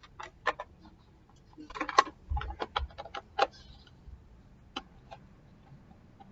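Sharp clicks and knocks of electric fan parts being handled and fitted together, in a quick cluster about two seconds in, then two single clicks near the end.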